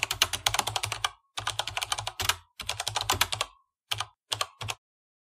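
Rapid clicking in three runs of about a second each, followed by three short bursts, in the pattern of typing on a keyboard.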